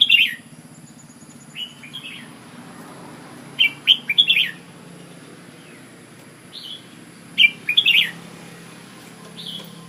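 Red-whiskered bulbul singing: short, bright, warbled phrases repeated every second or two, three of them loud and the rest softer, over a steady low hum.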